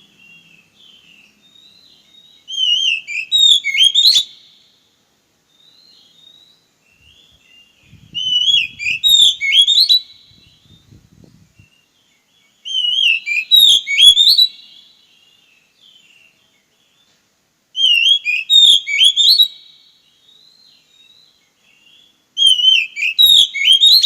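Oriental magpie-robin (kacer) singing: a loud whistled phrase of rapid rising and falling notes, repeated five times about every five seconds, with soft short calls in between.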